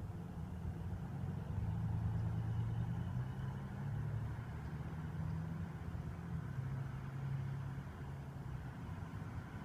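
Steady low hum of a freshly captured honey bee swarm, many bees buzzing together, swelling slightly and easing off again.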